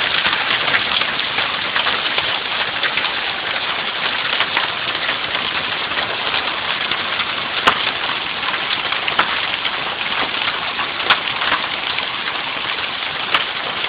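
Steady rain falling and hitting surfaces, with a few sharper clicks of single drops standing out.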